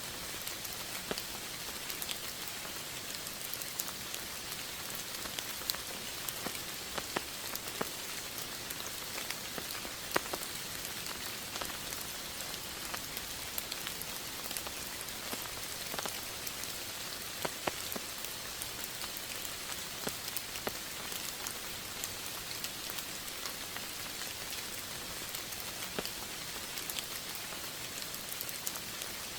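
Steady rain falling, a constant hiss with many separate drops ticking on a surface.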